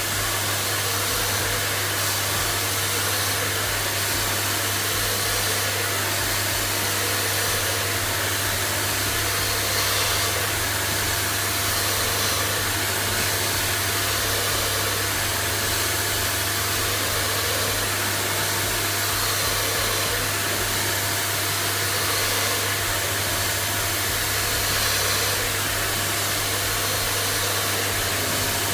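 Steady motor-driven rushing noise with a constant low hum, running evenly without pause.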